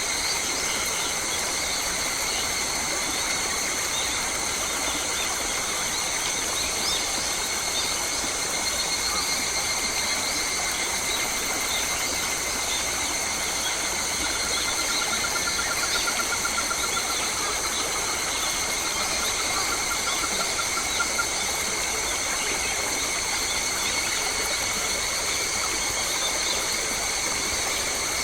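Forest ambience: a steady insect drone held at several high pitches at once, with scattered bird chirps and, about halfway through, a faint trilling call lasting several seconds.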